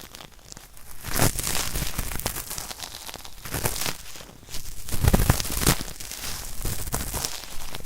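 Cotton swab rubbed hard against a microphone's ear: a dry, scratchy scraping in irregular strokes, loudest about a second in and again around five seconds in. It is meant to sound like scraping out hard earwax.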